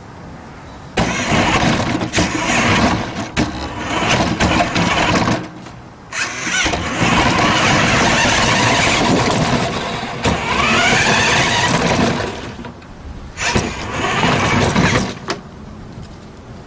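A 1/8-scale RC truck running in three bursts with short pauses between them, its motor whine rising in pitch near the middle of the run.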